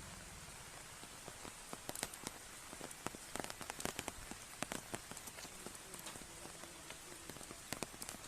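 Rain falling: a steady hiss with irregular sharp taps of drops hitting a nearby surface.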